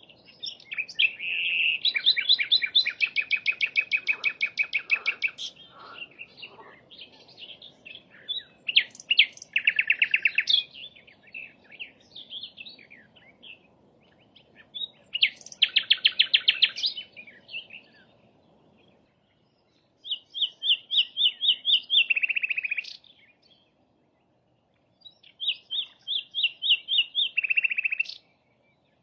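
Sikatan londo, a small flycatcher, singing in phrases of fast repeated chirping notes and rattling trills, with pauses of a second or two between the phrases.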